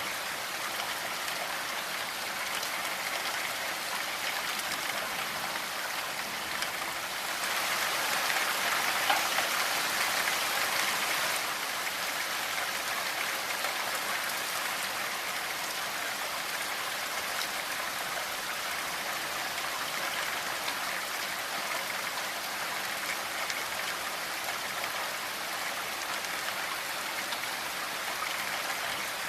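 Steady rainfall, an even hiss of many drops with no distinct patter, swelling louder for a few seconds about a quarter of the way in.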